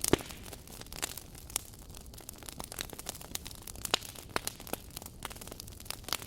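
Wood fire burning, with a steady low hiss and irregular sharp crackles and pops from the burning logs; the loudest pop comes right at the start, and others sound about a second in and around four seconds in.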